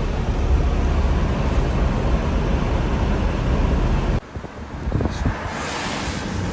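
Car driving: steady road and wind noise with a low rumble, which drops away suddenly about four seconds in and then builds again.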